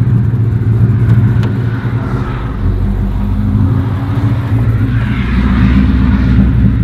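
A car engine idling loudly with a deep, steady rumble, running on a drive belt that is almost worn through.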